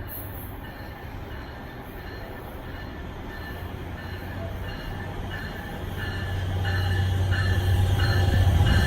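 NJ Transit passenger train approaching, its low rumble growing steadily louder, with intermittent high-pitched wheel squeal starting about halfway through.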